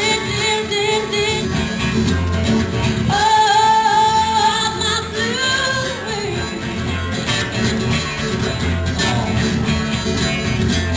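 Live band music: singing over strummed guitar and a steady bass pulse, with one long wavering held note a few seconds in.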